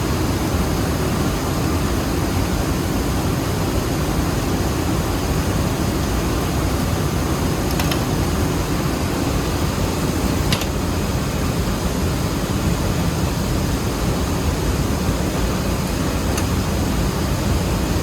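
Steady drone of running rice-mill machinery, with a few faint clicks about 8 and 10 seconds in and again near the end.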